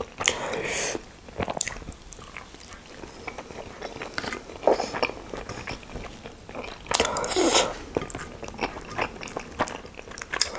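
Close-up mouth sounds of chewing a steamed chicken momo: wet chewing with small irregular clicks and lip smacks, and a few louder noisy bursts about half a second in, near five seconds and around seven seconds.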